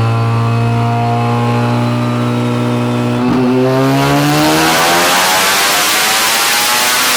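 Mazda FC RX-7's turbocharged 13B rotary engine on a dyno, holding steady revs for about three seconds. It then makes a wide-open-throttle pull in 3rd gear, its pitch climbing steadily with a growing turbo hiss. The pull runs on base wastegate pressure, with the boost controller switched off.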